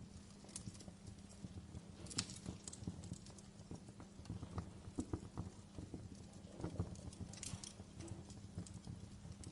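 Logs burning in a fireplace, crackling with irregular sharp pops and snaps, a cluster of louder snaps about two seconds in and again near the end, over a steady low rumble of the flames.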